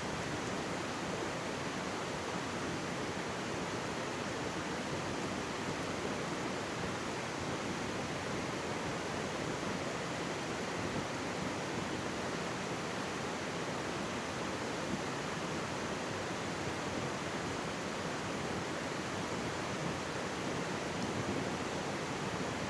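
Mountain stream babbling steadily close by, an even rush of water with no breaks.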